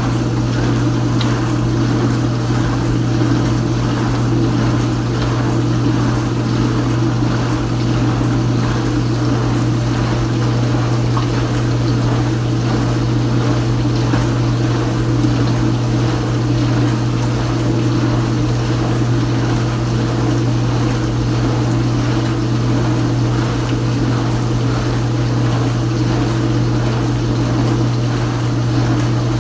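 Kenmore Ultra Wash 3 dishwasher running: a steady pump hum under the rush of water spraying inside the tub. It cuts in suddenly at the start and then holds steady.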